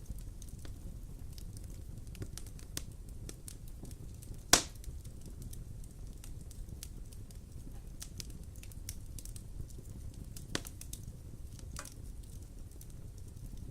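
Wood fire crackling in a fireplace: a steady low rumble of flames under many small snaps, with one loud pop about a third of the way in and a few smaller pops near the end.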